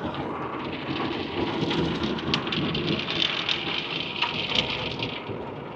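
An automatic tunnel car wash at work, heard from inside the car: water spray and scrubbing brushes beat on the body and windows with a steady hiss and patter like heavy rain.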